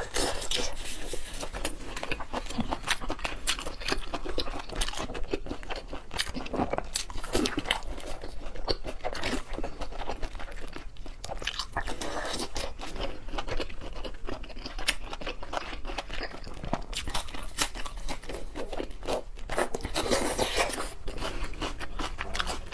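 Close-miked eating: a person biting and chewing seafood, with a dense, irregular run of small clicking mouth sounds.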